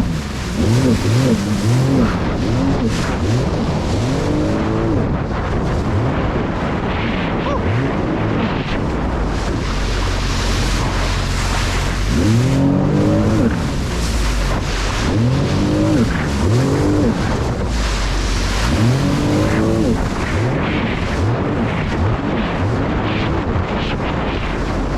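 Jet ski engine running at speed, its pitch rising and falling over and over as the craft rides across waves, over steady wind and water rush.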